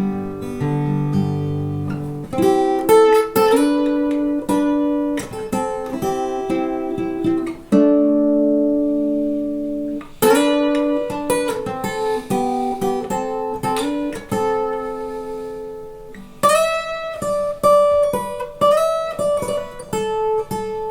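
Acoustic guitar playing an instrumental break: picked melody notes over chords, with a held chord left to ring about 8 s in and again about 14 s in.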